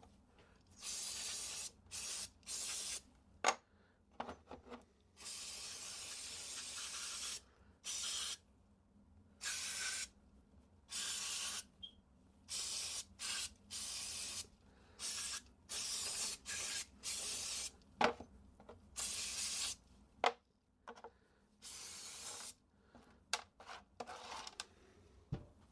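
A pressurised spray let off in many short bursts of hiss, each lasting from a fraction of a second to about two seconds, with one longer burst about five seconds in. A few sharp clicks come between the bursts.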